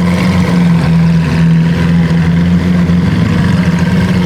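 Lamborghini supercar exhaust running steadily at low revs, a deep even drone with no revving.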